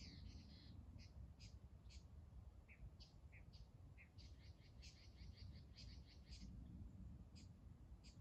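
Faint birds chirping outdoors, with short high calls scattered through and a quick series of about six a second near the middle, over a low steady background rumble.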